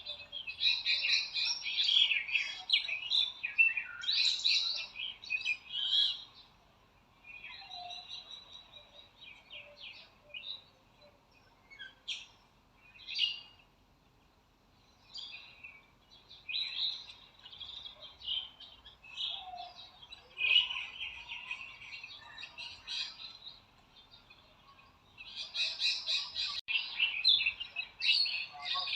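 Several small birds chirping and twittering in busy bouts, with stretches of scattered single chirps and a few lower whistled notes between the bouts.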